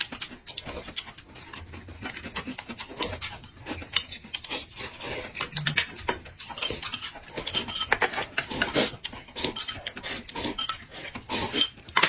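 Close-miked eating: crunching and chewing with wet mouth sounds, a dense run of crackly clicks.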